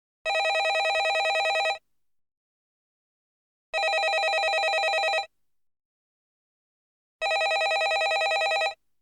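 Landline telephone bell ringing: three rings, each about a second and a half of rapid trilling, with about two seconds of silence between them.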